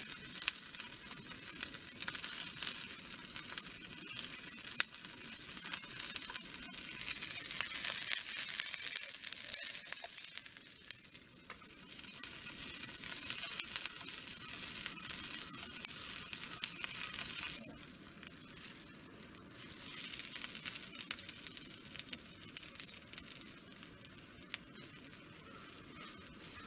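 Food sizzling and frying in a hot pan, a steady hiss that swells and fades, dropping suddenly about two-thirds of the way through.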